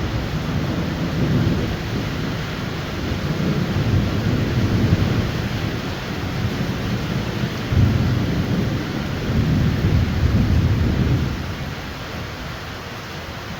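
Heavy rain pouring down steadily while thunder rolls in several low rumbling swells, the last and strongest fading near the end.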